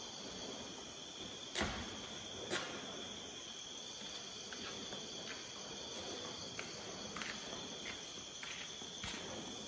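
Crickets chirring steadily in a high, even trill. Two sharp knocks come about one and a half and two and a half seconds in, then a run of faint, evenly spaced footsteps approaches in the second half.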